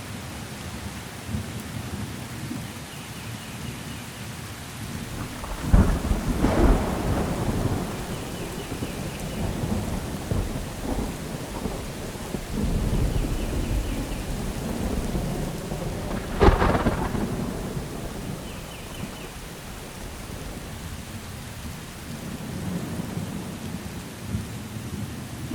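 Steady rain during a thunderstorm, with low rumbling thunder. Two sharp thunderclaps, about six seconds in and about sixteen seconds in, are the loudest sounds.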